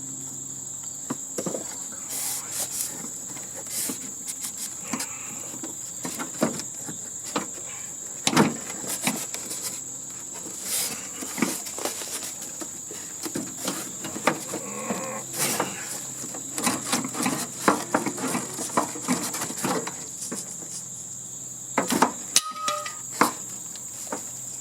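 A steady, high-pitched insect chorus, with irregular clinks, clicks and knocks of hand tools working on sheet metal and parts of an air-conditioning unit being stripped for scrap.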